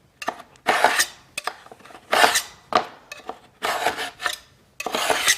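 Score-and-snap knife scraping repeatedly along a fibre cement weatherboard under heavy pressure, about one stroke a second, scoring a line to snap the board.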